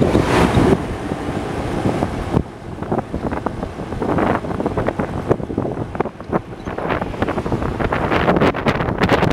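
Wind buffeting a microphone in uneven gusts, with crackly swells and dips in level.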